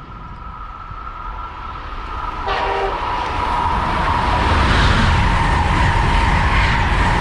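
A train approaching and passing at speed, growing steadily louder. A short horn sound comes about two and a half seconds in, then a loud rush of wheels and air that stays strong to the end.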